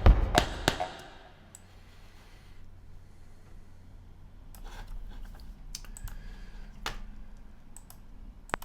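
A few loud thuds of percussive playback stop within the first second, then a run of scattered clicks from a computer mouse and keyboard.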